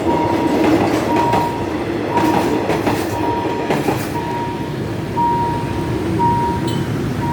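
Passenger train coaches rolling over a level crossing, their wheels clicking over the rail joints in the first few seconds above a steady rumble. A crossing warning signal beeps about once a second throughout.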